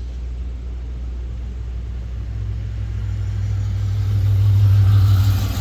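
A car engine running with a steady low rumble, which grows louder from about halfway through.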